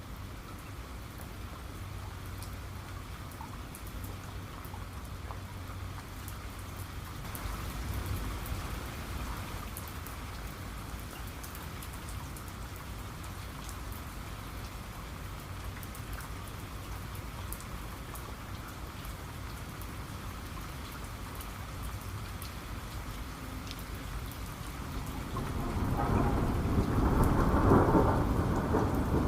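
Steady heavy rain falling, with thunder: a low rumble about eight seconds in, then a louder rolling thunderclap building near the end.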